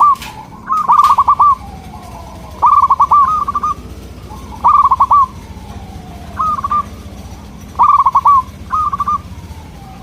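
Zebra dove (perkutut) singing, a loud phrase of quick rolling coos repeated about every two seconds, six times. Fainter, slowly falling calls sound between the phrases.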